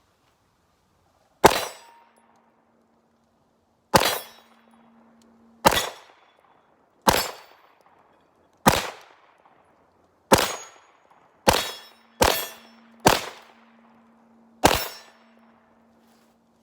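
Ten pistol shots from a Walther PPQ Q4 Tac fired at AR500 steel targets, at an uneven pace a second or more apart. Struck steel plates ring with a low steady tone that lingers after several of the shots.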